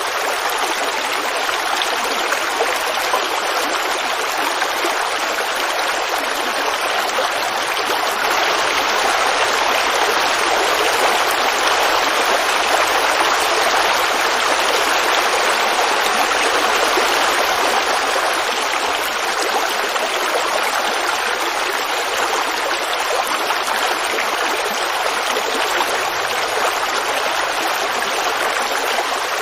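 Forest creek babbling over rocks, a steady rushing flow of water that swells slightly midway.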